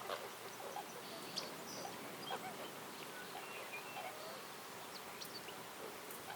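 Forest ambience: scattered short bird chirps and calls, a few each second, over a steady background hiss.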